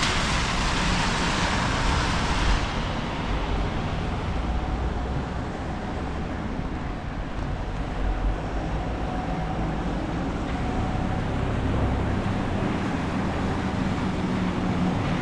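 Wet, windy town-street ambience: traffic and wind rumbling on the microphone, with a broad hiss that cuts off about two and a half seconds in.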